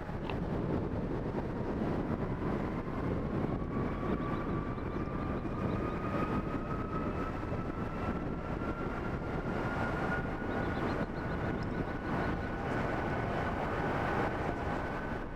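Jet airliner engines running with a steady rumble and a thin whine that climbs slowly in pitch.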